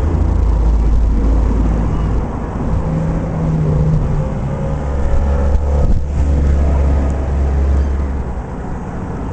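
Diesel train engine running with a deep, steady drone, its note strengthening about three seconds in and easing off near the end.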